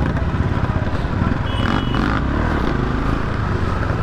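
Motorcycle engine running on the move, a steady low rumble mixed with road and wind noise.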